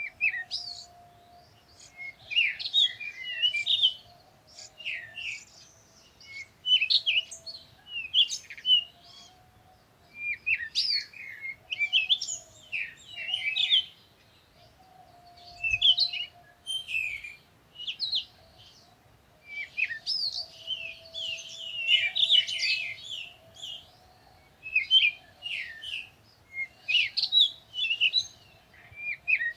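Small birds chirping in quick high bursts of one to two seconds, repeated every few seconds, with a faint steady hum underneath.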